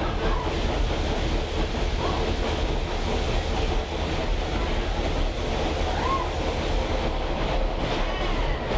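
Moving train heard from aboard a riding caboose: a steady rumble of wheels on the rails with running noise, and a couple of faint brief squeals.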